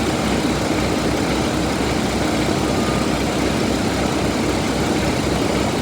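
2018 Paccar MX13 inline-six diesel engine idling steadily, with an even low pulsing.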